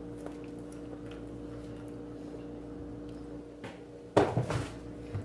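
A person chewing and eating bananas, with faint scattered clicks over a steady low hum. A brief loud sound comes about four seconds in.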